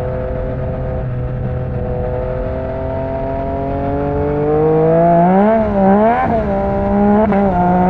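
Yamaha MT-09's three-cylinder engine through an Akrapovic exhaust under way: steady at first, then the revs climb from about three seconds in, with a few quick dips and rises in pitch before it settles at a higher, louder note.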